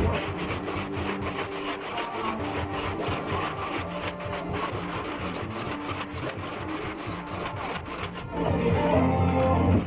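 Hand sanding of a car body panel: sandpaper rubbed back and forth in quick, even strokes, stopping about eight seconds in.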